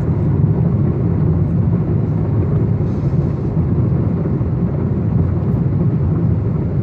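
Union Pacific manifest freight train rolling past, a steady low rumble.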